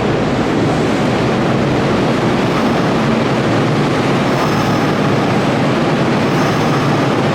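Hanshin Main Line electric train running at the platform: a steady, loud rush of wheel and motor noise. A faint high squeal comes in briefly twice, in the second half.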